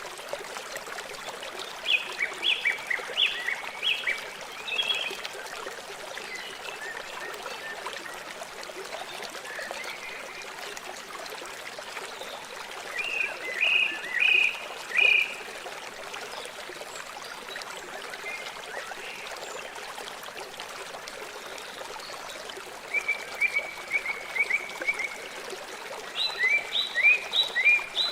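River water flowing steadily, a continuous rushing trickle. It is broken several times by short bursts of rapid high chirping calls, each a quick run of notes, the loudest near the end.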